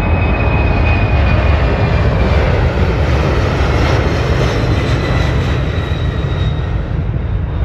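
Jet noise from the Boeing C-17A Globemaster III's four Pratt & Whitney F117 turbofans at take-off power: a loud, deep rumble with a thin whine that slowly falls in pitch, the level easing off slightly toward the end.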